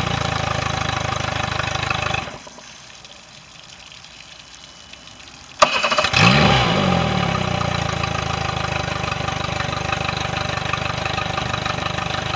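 Mercury 60 hp four-stroke outboard idling, then shut off about two seconds in. A few seconds later it is restarted with a click and a brief crank, catches at once, revs up briefly and settles back to a steady idle. This is the motor starting readily after its no-start fault was repaired.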